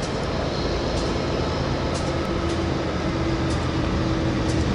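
Approaching BNSF freight train's diesel locomotives, still some way off: a steady low rumble with a faint hum, slowly growing louder.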